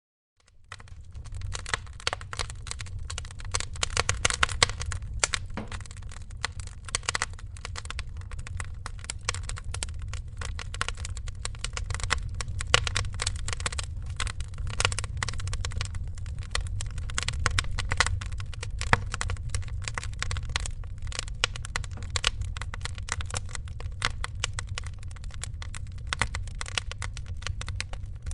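Wood fire crackling in a fireplace: dense, irregular pops and snaps over a steady low rumble, fading in over the first second.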